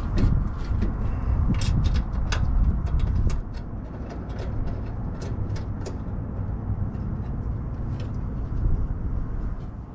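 Scattered sharp clicks and taps of metal parts and tools being handled, over a low steady rumble that eases about three and a half seconds in.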